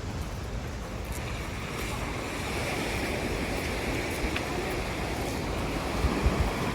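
Sea surf washing onto the beach, a steady rushing that swells a little after the first couple of seconds, with wind on the microphone.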